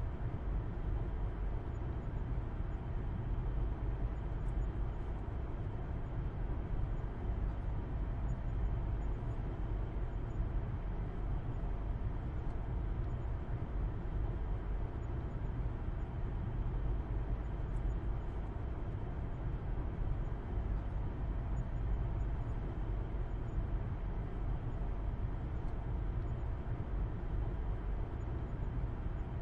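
Car interior driving noise: a steady low rumble of engine and tyres on the road, even throughout with no changes.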